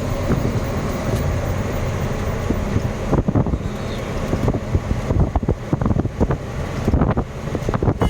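Truck engine and road noise while driving, with wind buffeting the microphone, more gusty and crackling from about three seconds in.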